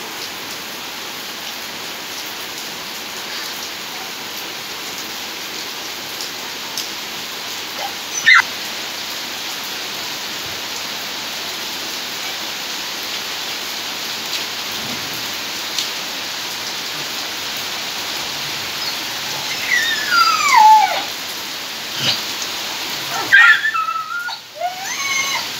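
Steady rain falling on wet pavement, with one sharp click about eight seconds in. In the last few seconds a monkey gives several high calls that slide down in pitch.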